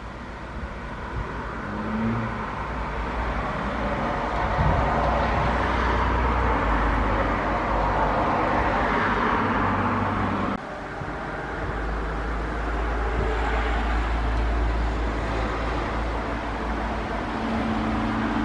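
Road traffic: car noise that swells over several seconds and then eases, over a steady low hum. It drops off abruptly about ten seconds in, and similar road noise carries on after.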